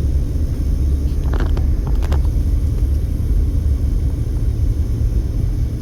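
Steady low road and engine rumble inside a moving car's cabin, with a few faint clicks about one and a half and two seconds in.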